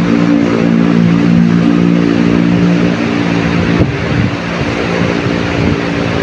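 Surf and wind rushing steadily, with a motor engine running at a steady low hum over it; the engine hum fades out about three seconds in, leaving the surf.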